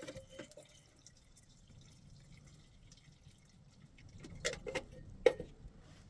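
A few light knocks and taps, each with a brief ring, in a small room. There are a couple near the start and a cluster about four and a half to five and a half seconds in, the last and sharpest about five seconds in.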